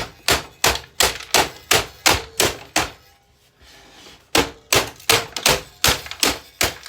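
Rapid blows striking a boombox as it is smashed, about three a second, with a break of about a second and a half in the middle before they start again.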